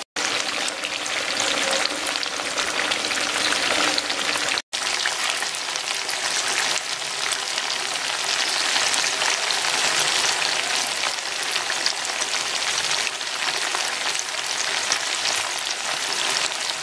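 Batter-coated chicken pieces frying in hot oil in a pan, a steady dense sizzle and crackle of bubbling oil. The sound cuts out for an instant twice, at the very start and about five seconds in.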